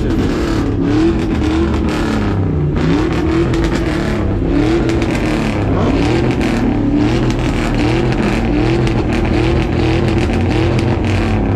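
Car engine revved over and over, its pitch climbing sharply and dropping back about once a second over a steady low rumble.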